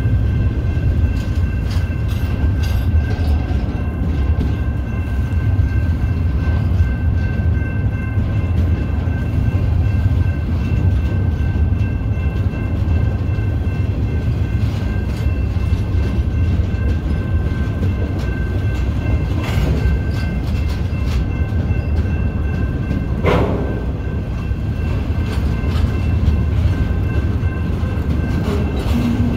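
Intermodal freight train rolling past with a steady low rumble of wheels on rail and scattered clicks over the rail joints. Faint steady high ringing tones sit above the rumble.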